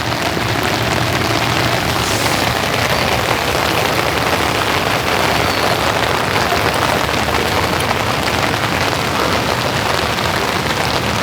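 Steady rain falling, a dense hiss of drops with fine pattering.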